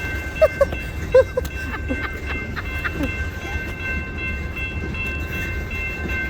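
DeQueen & Eastern GP40-2 diesel locomotive and its train running during switching: a steady low rumble under several steady high tones. A few short chirps stand out in the first second and a half.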